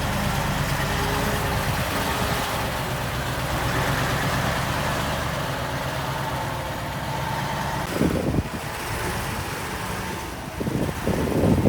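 Heavy diesel engine of earthmoving machinery running steadily, with a brief louder, uneven noise about eight seconds in and again near the end.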